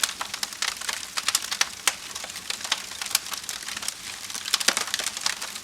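Wood fire crackling: irregular sharp pops and snaps over a steady hiss of burning.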